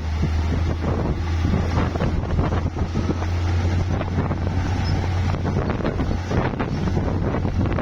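Heavy bulldozer's diesel engine running steadily with a low drone, over irregular crackling and clatter from the tracks and the dirt and rock being pushed. Wind buffets the microphone.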